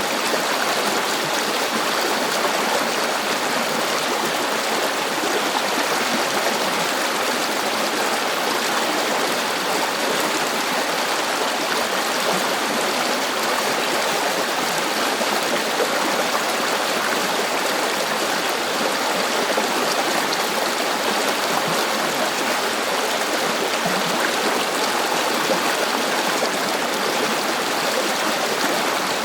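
River water flowing over stones, a steady rushing and babbling without pause.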